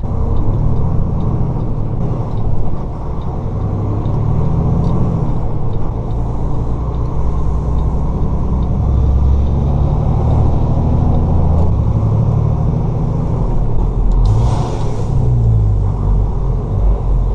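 Semi-truck diesel engine and road noise heard from inside the cab, the engine drone rising and falling in pitch through the gears. A short hiss of air about fourteen seconds in.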